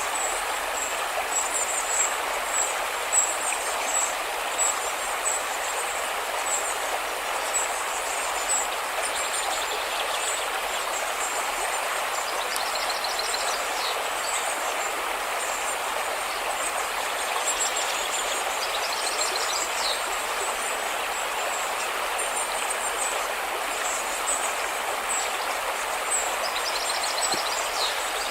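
River water rushing steadily, with short high chirps repeating throughout and a few brief rattling trills.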